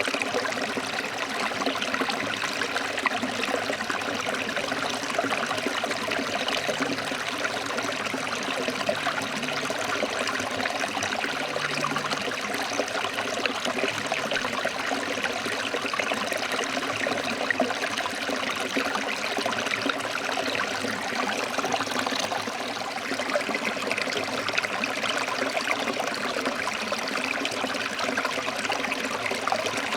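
Forest stream flowing and splashing over rocks: a steady, even rush of water.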